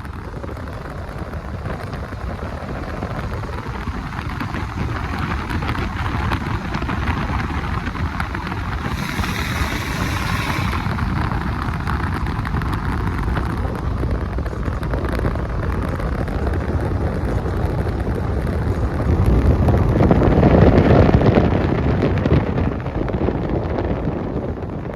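Car engines running amid outdoor traffic noise, with wind on the microphone. A brief hiss comes about nine seconds in, and a vehicle swells louder about twenty seconds in.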